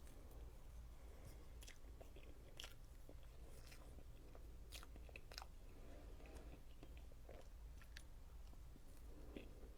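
A person chewing soft Oreo cake with whipped cream frosting, faint, with scattered small wet mouth clicks.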